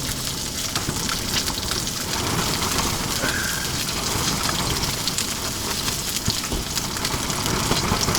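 Steady hiss with fine crackling: food frying in a pan on a portable propane stove, with wind buffeting the tent and the microphone.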